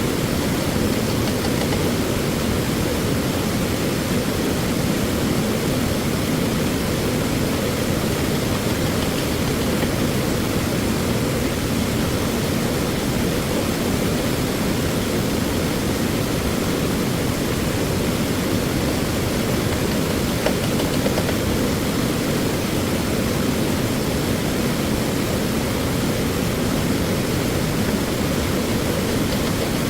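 Steady rush of stream water flowing close by, an even low noise with no breaks.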